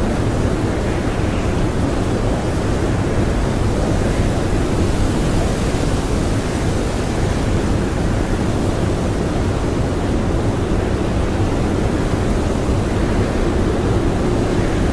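Strong blizzard wind blowing as a steady, dense rush, heaviest in the low end, with no gusts, breaks or other sounds.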